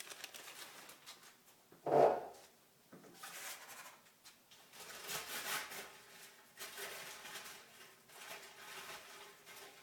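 Rustling and handling of paper raffle slips and a bag, in irregular stretches, with one brief louder, low-pitched sound about two seconds in.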